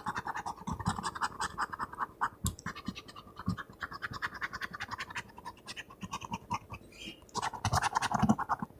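Scratch-off lottery ticket being scratched: rapid back-and-forth scratching strokes that ease off in the middle and pick up again near the end.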